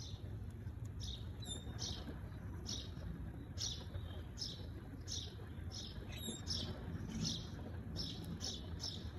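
A small bird chirping over and over, short downward chirps about once or twice a second, over a low steady hum.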